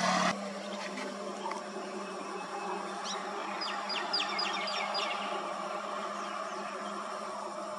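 A passing vehicle's noise cuts off abruptly just after the start, leaving steady outdoor background hum and hiss. About three to five seconds in, a bird gives a quick run of short, high, falling chirps.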